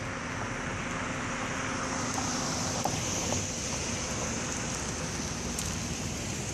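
Steady road traffic noise with a continuous high-pitched hiss over it.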